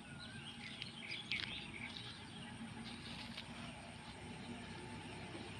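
Small birds chirping, with short calls clustered in the first two seconds, over faint outdoor background noise. A brief sharp tick comes about a second and a half in.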